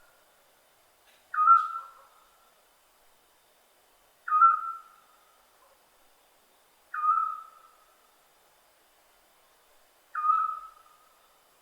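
Scops owl giving its short whistled call four times, about once every three seconds; each note starts sharply and trails off at a steady pitch.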